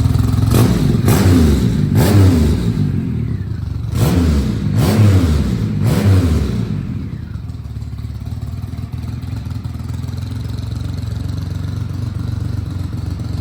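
Triumph Rocket III's big inline three-cylinder engine idling, blipped on the throttle six times in two quick groups of three, each rev rising and dropping straight back, then settling to a steady idle.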